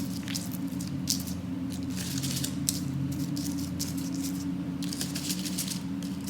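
A homemade nature paintbrush of twigs and plant bits dabbing and scraping paint onto paper in short, irregular scratchy strokes, over a steady low hum.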